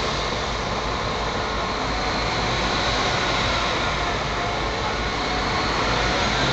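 Steady running noise of a train moving slowly, an even rumble and hiss with no distinct wheel clicks.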